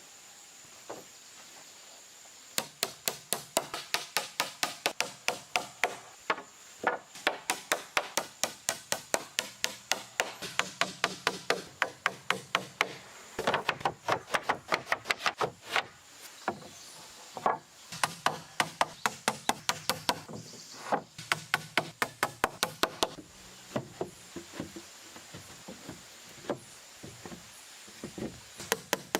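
Rapid, regular blows of a tool on wood, about three a second, in runs of several seconds with short breaks, starting about two and a half seconds in and thinning out to a few scattered strikes near the end.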